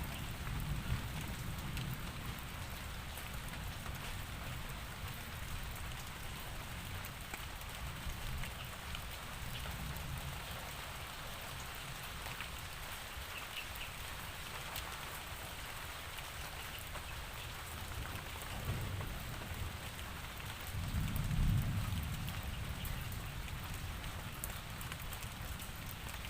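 Steady rainfall hissing and pattering on surfaces. A low rumble swells up about three-quarters of the way through.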